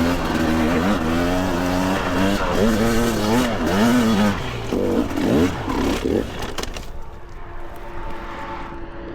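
Two-stroke dirt bike engine revving hard, its pitch swinging up and down as it works up a steep hill, then settling to a lower, steady idle about seven seconds in.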